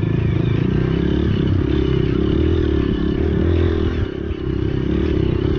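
Trail motorcycle engine running hard under load, with the throttle easing briefly about four seconds in before it picks up again.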